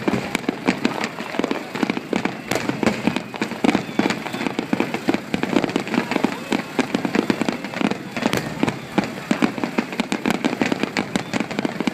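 Aerial fireworks going off in a dense run of sharp pops and bangs, several a second, without a break.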